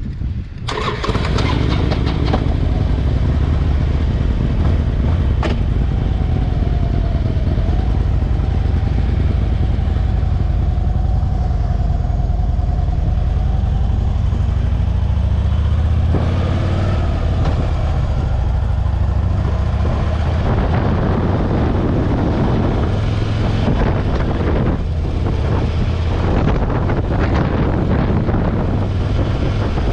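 Motorcycle engine running steadily under way, with wind rushing over the microphone. It grows louder about a second in and then holds.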